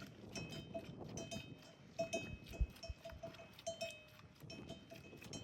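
Livestock bells clinking irregularly, many small rings at the same few pitches, as animals move about.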